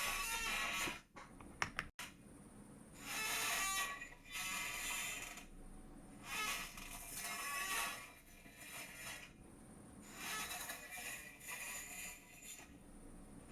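A chair creaking and squeaking in repeated bursts of about a second each, with a few sharp clicks near the start, as the sitter shifts their weight.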